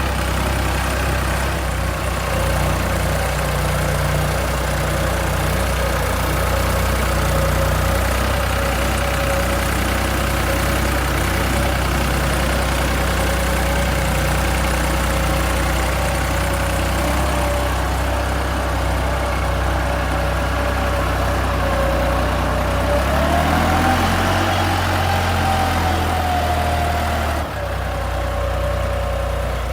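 Tractor engine running steadily. About three-quarters of the way through its pitch rises and holds higher for a few seconds, then the sound changes abruptly near the end.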